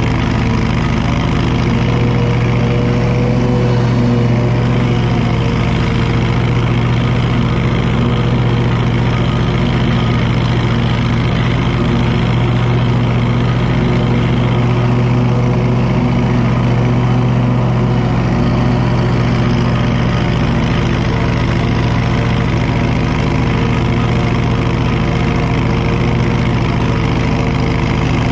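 Lawn mower engine running steadily at a constant speed, with only small shifts in pitch.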